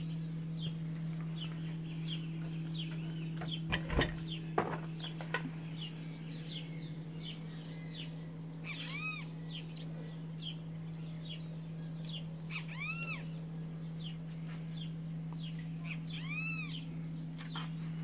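Wild birds chirping all through, with three louder arched calls, each rising and falling, about 9, 13 and 16 seconds in, over a steady low hum. A few knocks about four seconds in.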